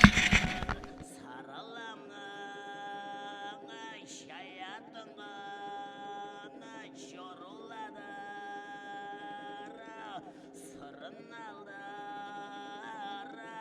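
Tuvan-style throat singing: a steady low drone with long held, chant-like vocal notes above it, broken every couple of seconds by short gliding turns in pitch.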